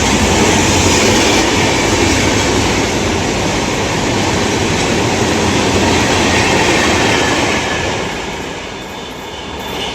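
Train running on the rails: a loud, steady rumble with wheel-on-rail noise, easing off near the end.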